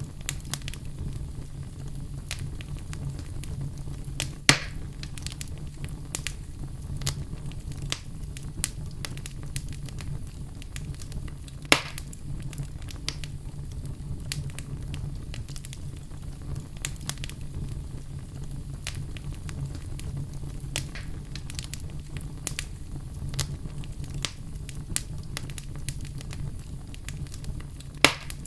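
Fire in a fireplace crackling steadily over a low rumble. Three sharp pops stand out: about four seconds in, near the middle, and near the end.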